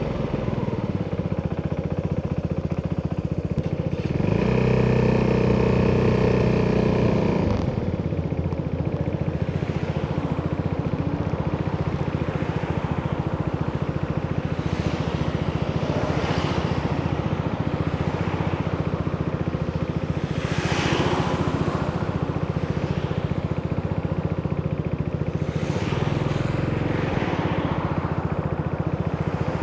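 Italjet Dragster 200 scooter's single-cylinder four-stroke engine running under way through an Akrapovic exhaust. It gets louder and holds a steady pitch for a few seconds about four seconds in. Short whooshes of passing traffic come a few times later on.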